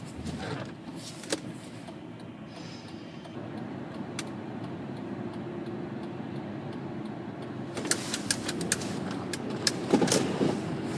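Steady road and engine noise inside a moving 2005 Honda Pilot's cabin, with a run of light clicks a few seconds before the end.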